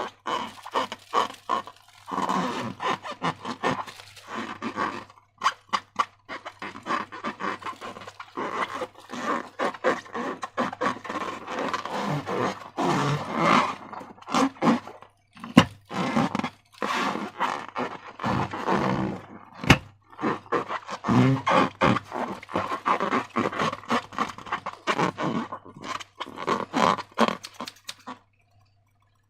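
Slime being squished and worked by hand, a dense run of sticky squelches and crackles that stops about a second before the end.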